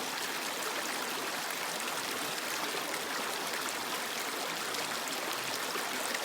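Creek water flowing steadily over rocks, an even rushing with small splashes and trickles.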